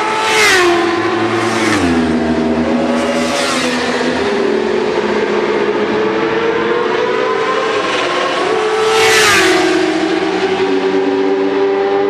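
Sport motorcycles passing at speed on a race track, engines at high revs. Several go by in the first few seconds and a loud one passes about nine seconds in, each engine note dropping in pitch as it goes past.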